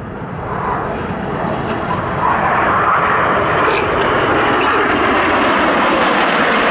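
Red Arrows BAE Hawk T1 jets flying past during the Rollbacks manoeuvre. The jet engine roar grows louder over the first two seconds, then holds loud and steady.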